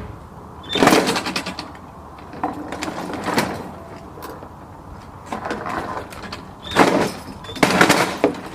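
Running lawnmower with a toy's plastic hoop stuck under the deck. The blade knocks and clatters against it in about five rough bursts.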